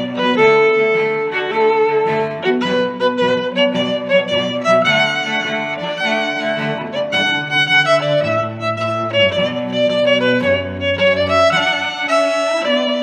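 Background music led by violin with bowed strings, melody notes changing every second or so over a moving bass line.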